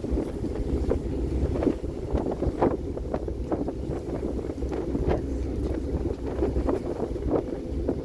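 Wind buffeting the microphone on a moving ferry, in frequent short gusts, over a low steady rumble from the boat.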